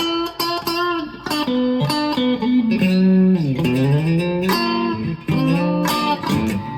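Squier Affinity Stratocaster electric guitar with single-coil pickups, played through an amp on a clean tone with the pickup selector in position 2: picked single notes and short melodic lines. About halfway through, a held note is dipped down in pitch and brought back up with the tremolo arm.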